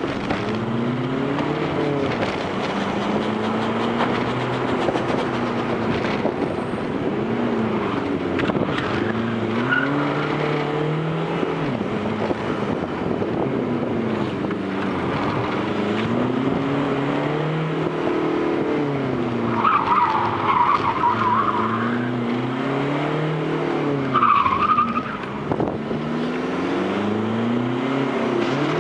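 Fiat Grande Punto's 1.9 Multijet diesel engine being driven hard, its pitch climbing and dropping again every few seconds. Tyres squeal briefly twice in the second half.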